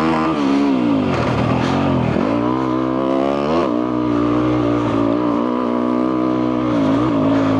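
2022 Yamaha YZ250F's single-cylinder four-stroke engine with a full FMF exhaust, running under way. The revs drop and climb back about two seconds in, dip sharply again a little later, then hold steady.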